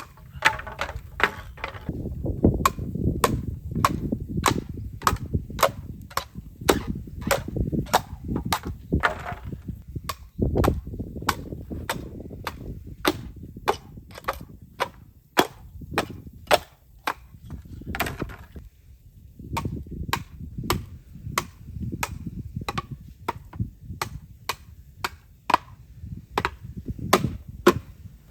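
Bamboo cracking: a long, fairly even run of sharp cracks, about two a second, over a low rumble.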